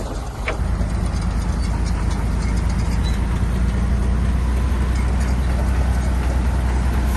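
Heavy diesel engine of earth-moving equipment running steadily with a deep drone, getting a little louder about a second in and then holding.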